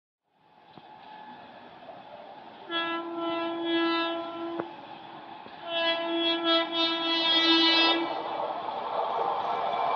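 Indian Railways WAP7 electric locomotive sounding its horn in two long blasts, about two seconds each and a second apart, as the train approaches. The rush of the oncoming train grows steadily louder.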